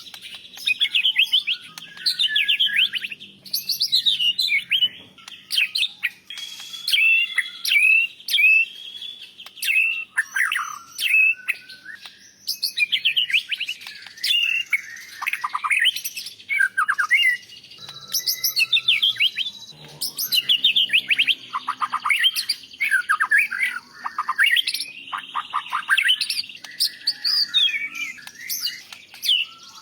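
White-rumped shama (murai batu) singing continuously, a long run of varied phrases made of rapid chirps, whistled notes and trills with only brief pauses between them.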